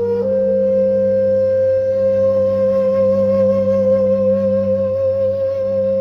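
Meditation music: a flute-like wind instrument holds one long note with a slight wavering vibrato over a steady low drone.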